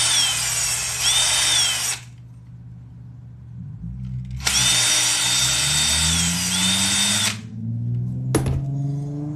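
Power drill boring holes through layered leather for rivets, run in two bursts of about two and three seconds. In each burst the motor's whine dips in pitch briefly and comes back up. A sharp click follows near the end.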